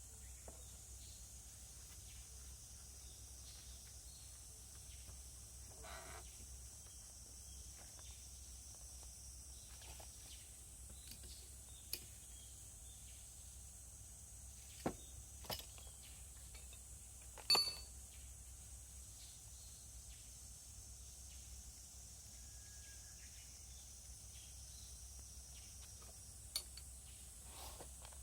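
Faint steady background hiss and low hum, broken by a few sharp isolated clicks or knocks. There are two near the middle, the loudest a little after, and one more near the end.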